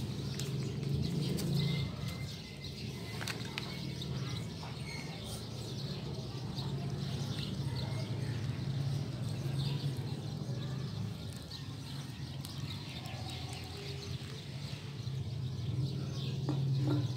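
Birds chirping in the background over a steady low hum, with a few faint clicks.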